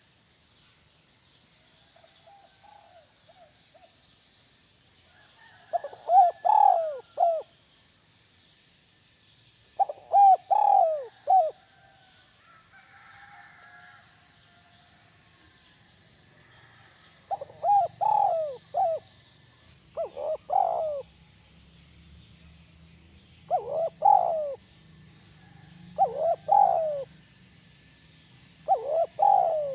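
Spotted dove (tekukur) cooing in the 'kuk 1' song type: seven repeated phrases of a few coos each, spaced a few seconds apart, with fainter coos early on. A steady high hiss runs underneath.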